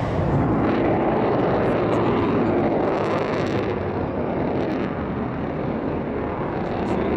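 Avro Vulcan delta-wing bomber in flight, its four Rolls-Royce Olympus jet engines giving a steady, deep rumbling roar.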